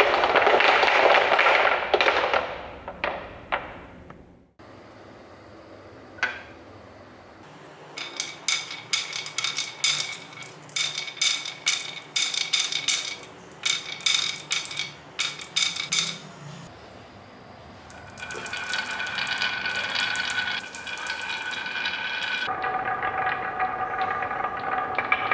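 Glass marbles running down a marble run: a loud rolling rush at the start, then a long run of rapid ringing clicks as they strike the track and each other. Near the end comes a steady ringing roll.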